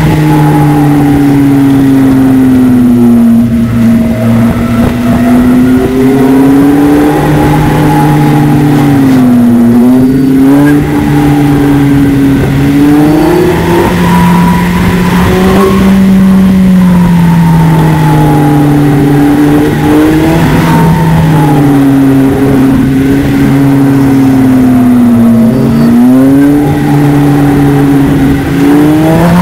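Polaris Slingshot's engine running under load, its pitch rising and falling over and over as it speeds up and slows down.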